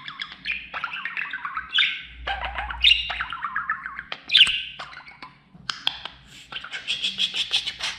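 Budgerigar warbling and chattering: short scratchy phrases that each fall in pitch, about one a second, then a quicker, denser run of chirps near the end.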